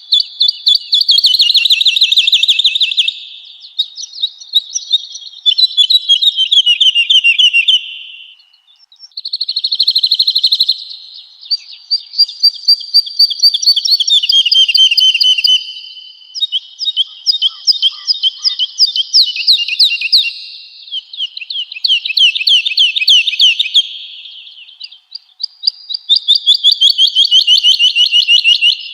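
Woodlark singing: a string of fast, liquid trilled phrases, each two to four seconds long and mostly falling in pitch, following one another with only short pauses.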